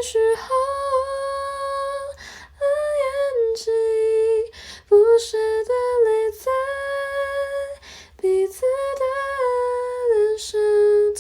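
A woman singing a slow Mandarin pop ballad unaccompanied, in phrases of a few seconds with long held notes and short breaths between them.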